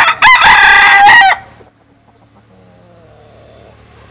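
Bantam rooster crowing once: a short opening note, then a long held call lasting about a second, cut off sharply. Faint voices follow.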